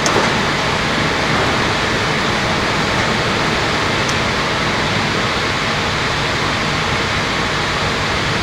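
Nevonka multi-blade circular saw machine running with a loud, steady, even noise.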